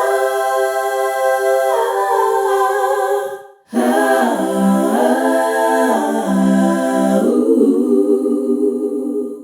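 Background music of wordless, choir-like held notes; it drops out briefly about three and a half seconds in, resumes with a slow moving melody, and stops abruptly at the very end.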